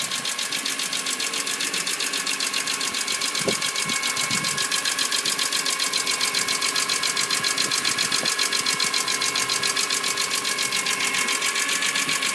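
BMW E46 M3's S54 inline-six engine idling with a fast, steady valvetrain ticking, the tick that calls for a valve clearance adjustment. A single brief thump sounds about three and a half seconds in.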